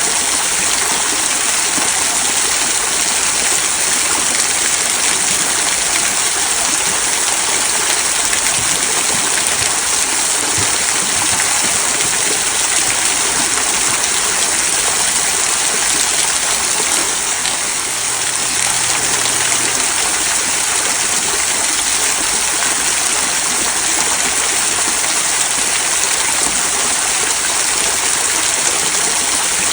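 Small rock waterfall trickling down stones into a stream: a steady, even splashing of water.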